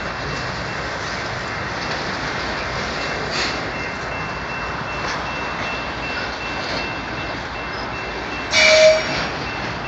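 BNSF freight train of autorack cars rolling past, a steady rush of wheels on rail with a faint, thin, steady high squeal. A short, louder tone sounds briefly near the end.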